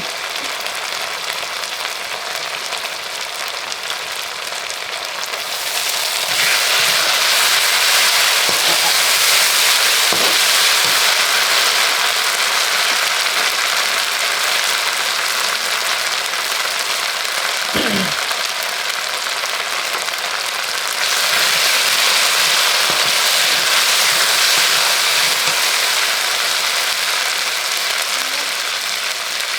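Food sizzling as it fries in hot oil in a cooking pan. The hiss is steady and gets louder about six seconds in and again about twenty seconds in.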